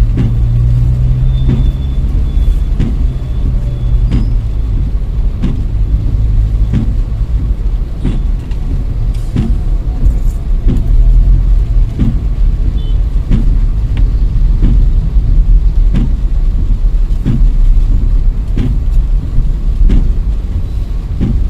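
Road noise inside a moving car: a steady low rumble of engine and tyres, with a light knock about every two-thirds of a second.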